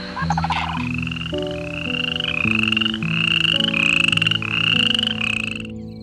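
An animal calling over and over, about two short rasping calls a second, each rising slightly in pitch, over background music with sustained notes.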